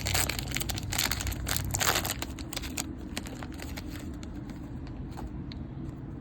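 Wrapper of a trading-card jumbo pack crinkling and tearing as it is ripped open. The crinkling is dense for about two seconds, then dies down to a few faint rustles and clicks.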